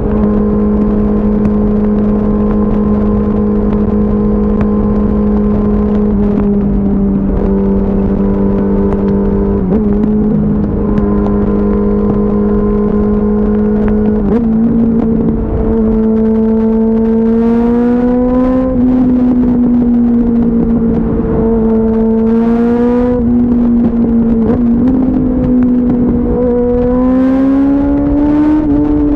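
2004 Yamaha R6's inline-four engine running at steady highway cruising revs, with a low rush of wind noise. The engine pitch rises gently twice, about halfway through and again near the end, as the throttle is opened a little.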